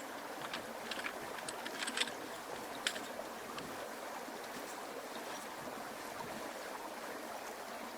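Steady rushing noise with scattered sharp crackles and clicks over the first three seconds, then just the steady noise.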